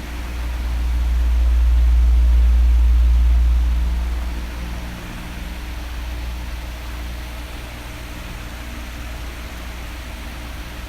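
Electric bedroom fan blowing: a steady hiss over a low rumble. The rumble swells louder for about four seconds near the start, then eases back, as the oscillating fan's air stream sweeps past the microphone.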